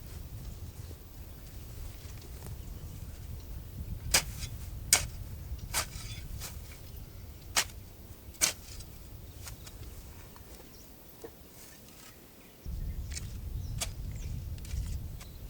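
A series of sharp knocks, about seven, spaced irregularly over a low rumble that gets louder suddenly near the end.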